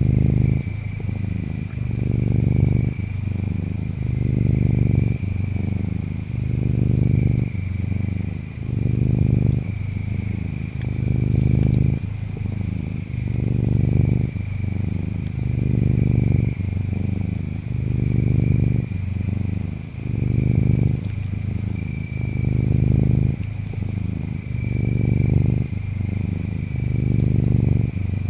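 Ginger tabby cat purring, the low purr swelling and easing in a steady rhythm with its breathing, about one full breath every two and a half seconds. Insects chirp throughout, with a steady high trill and intermittent higher chirping.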